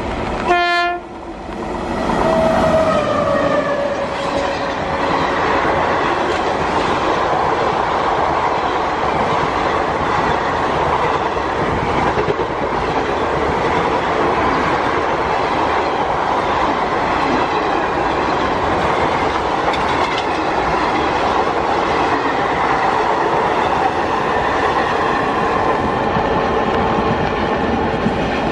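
Indian Railways WAP-7 electric locomotive sounds a short horn blast about half a second in, followed by a tone sliding down in pitch. Then an express train of passenger coaches passes close at speed, with a loud, steady rumble and wheel clatter over the rail joints.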